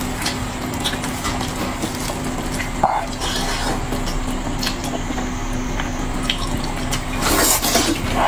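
Close-miked eating of a braised pork knuckle: wet tearing and chewing with small clicks over a steady low hum, and a louder burst near the end.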